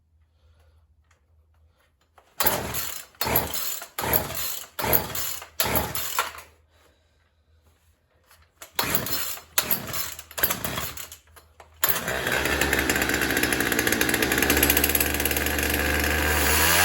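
Two-stroke chainsaw being pull-started on choke: five quick pulls of the starter cord, a pause, four more, then it catches about twelve seconds in and runs on steadily at a high idle. The owner reckons the carburettor is starving it of fuel.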